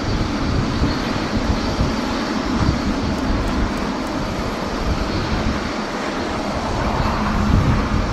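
Jet airliner engine noise, a steady rush, with strong wind buffeting the microphone in irregular low gusts.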